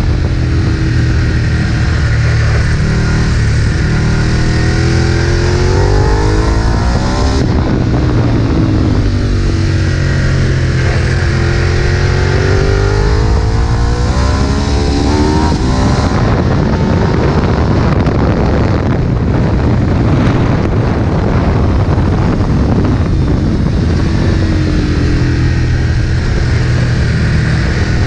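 Ducati 1098's L-twin engine at racing speed on a track, the revs falling and rising again several times as the bike slows for corners and accelerates out of them. The engine note changes suddenly a couple of times.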